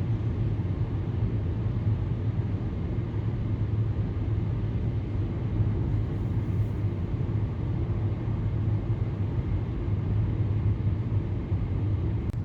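Steady road and engine rumble inside a moving car's cabin, with a strong low hum, while driving through a long road tunnel.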